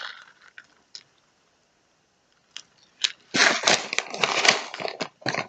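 Snack packaging crinkling and rustling as it is handled, a dense run of quick irregular crackles starting about three seconds in, after a near-quiet stretch with a light click or two.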